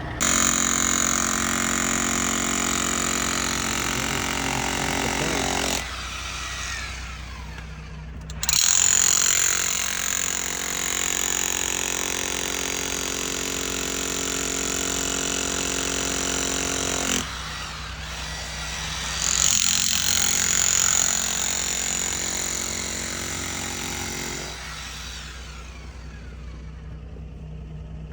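Motor-driven digging equipment running over a steady low engine hum. It starts and stops three times in runs of several seconds, each run with a steady high whine.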